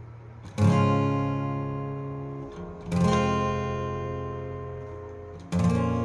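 Acoustic guitar strummed in the opening of the song: three chords about two and a half seconds apart, each left to ring and slowly fade.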